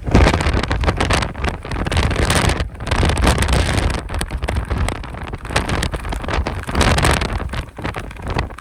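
Strong Santa Ana wind gusting and buffeting the microphone, a loud rushing noise with heavy low rumble that swells and eases from gust to gust.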